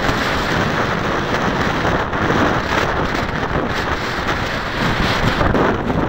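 Strong 20–30 mph wind buffeting the microphone: a steady, loud rushing noise that rises and falls in gusts.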